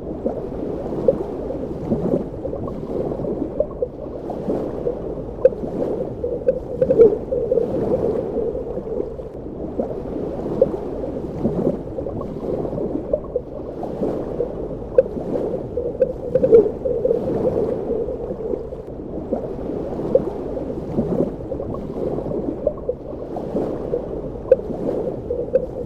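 Underwater ambience: a steady, muffled wash of water, its sound held low in pitch, dotted with frequent small bubbling pops.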